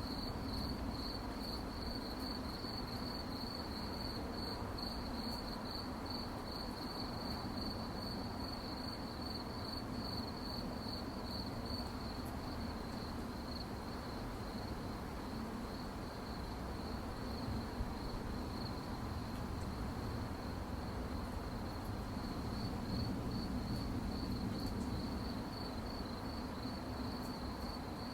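Crickets chirping at night, a steady high-pitched pulsing trill that never stops, over a low steady background rumble.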